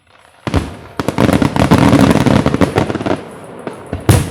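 Fireworks going off: a loud boom about half a second in, then about two seconds of dense, rapid crackling, and another sharp boom near the end.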